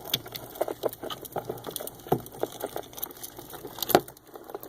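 Irregular clicks and taps of hermit crab shells knocking against each other and the container as the crabs climb about in their bath, with one sharper knock near the end.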